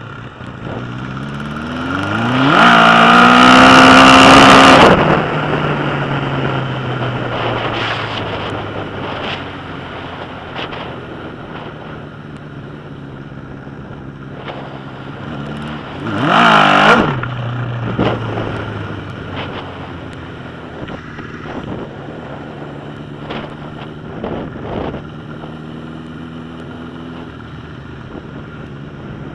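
Straight-piped 1981 Suzuki GS1000 air-cooled inline-four accelerating hard, its pitch climbing to a very loud full-throttle run, then falling away. A second, shorter burst of throttle comes a little past halfway.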